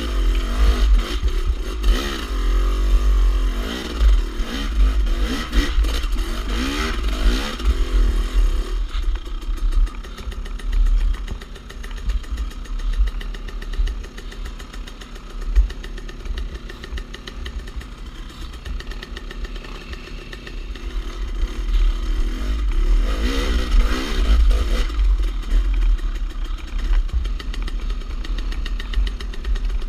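Dirt bike engine revved up and down again and again as the bike picks its way over rock ledges, busiest in the first several seconds and again a little after the middle, running steadier between, under a constant low rumble. A single sharp knock comes about halfway through.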